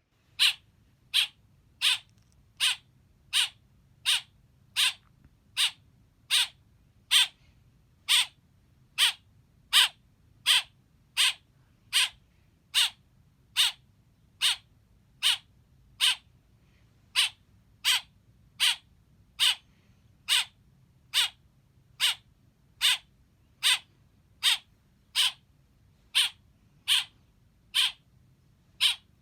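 A baby black bird chirping over and over: short, sharp calls at a steady pace of a little more than one a second.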